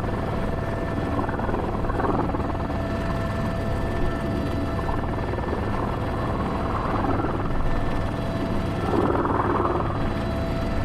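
Airbus H125 (AS350 B3) helicopter in flight with a sling load, its single turboshaft engine and main rotor giving a steady low thrum with a steady high whine over it.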